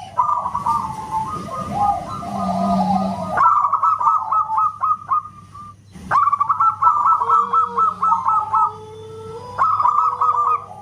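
Zebra dove (perkutut) singing: phrases of quick, staccato cooing notes at about one pitch, repeated over and over, with a short break about six seconds in.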